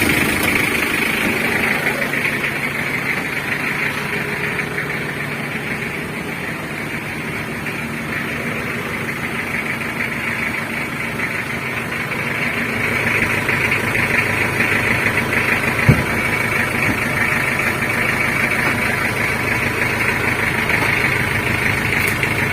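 Mitsubishi L300 diesel engine idling steadily just after a rebuild (block re-sleeved, oversize pistons and rings fitted to cure heavy oil burning), with one short thump about two-thirds of the way through.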